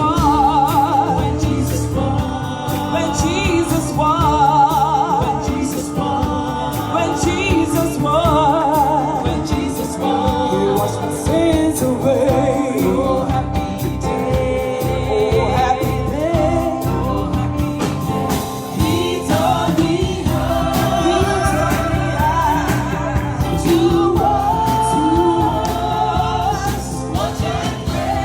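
Gospel singing with band accompaniment: voices with wide vibrato over a steady bass line and a regular drum beat.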